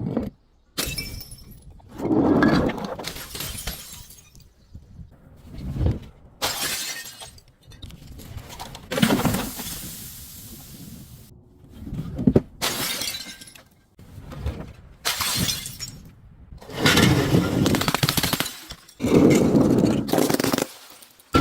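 Glass bottles shattering and objects being crushed: a string of about a dozen separate crunching, shattering bursts, several cutting in and off abruptly.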